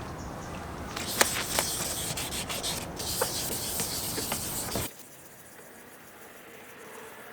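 1000-grit sandpaper rubbing over a plastic headlight lens during wet sanding: a scratchy rubbing with small clicks that stops abruptly about five seconds in, leaving only faint background.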